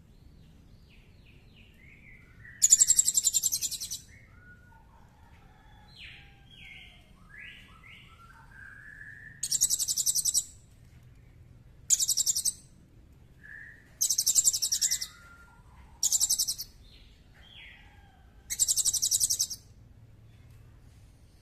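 Songbird song: six loud, very high, harsh rapid rattles, each lasting about a second, separated by softer, varied chirps and whistled slurs.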